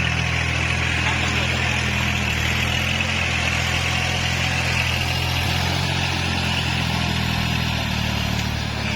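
Kubota tractor's diesel engine running steadily, with an even mechanical hiss over the low engine note.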